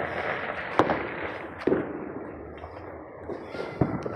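Neighbourhood fireworks and firecrackers going off at varying distances: a steady crackle of small firecrackers with separate sharp bangs, the loudest about a second in, nearly two seconds in and near the end.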